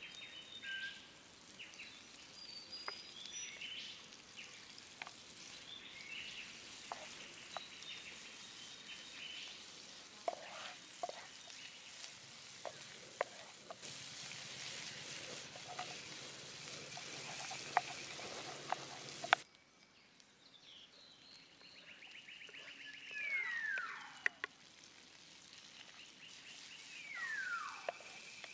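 Sliced onions sizzling in hot oil in a frying pan, with occasional clacks of a spatula stirring against the pan. About two-thirds of the way in the sizzle stops abruptly, and near the end a bird gives two whistled calls that sweep downward.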